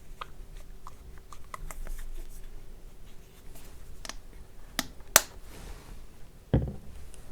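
ASMR tapping and handling of skincare products: a run of light clicks and taps, then two sharper clicks about five seconds in and a duller knock near the end.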